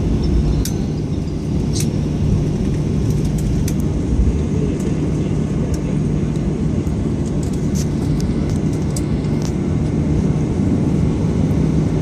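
Steady low engine noise of a Boeing 737 airliner, with a constant hum, heard from inside the passenger cabin. Scattered small clicks and rattles sound over it.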